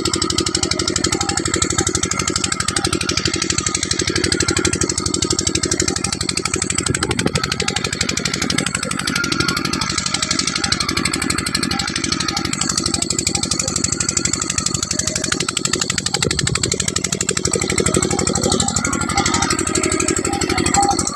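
12 hp engine running steadily under full load, with a rapid, even firing beat.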